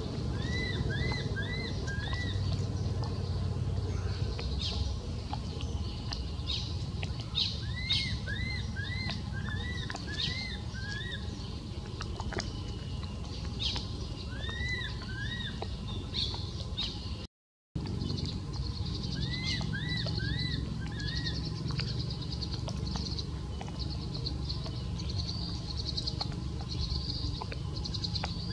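A bird singing the same short phrase of four or five quick arched, whistled notes, repeated every several seconds, over a steady low rumble and scattered faint ticks.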